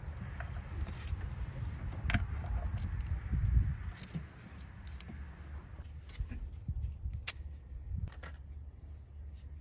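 Hand tools at work in an engine bay: a ratchet, extension and socket clinking against metal in scattered clicks, with a low handling rumble that eases off about six seconds in.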